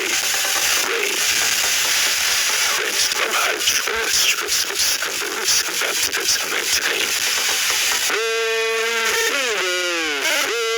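Steady hiss of rain. About eight seconds in, a held pitched tone like a synthetic voice or instrument comes in over it, then slides down in pitch and back up.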